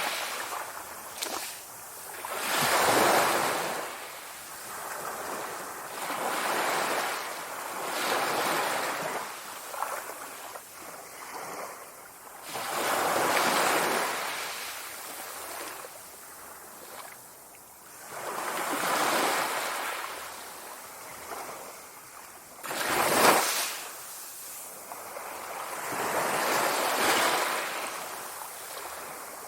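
Sea waves breaking and washing on the shore, swelling and ebbing every few seconds, with one sharper, louder break near the end.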